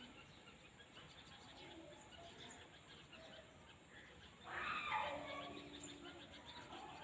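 Countryside ambience with faint chirping of small birds. About four and a half seconds in comes a louder brief noisy sound with a short low steady hum under it, which then fades.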